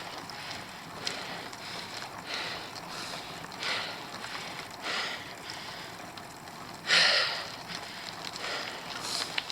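A cyclist's heavy, rhythmic breathing while climbing a steep hill, with a hard exhale about every second and a quarter and the strongest one about seven seconds in, over a steady hiss of wind and riding noise.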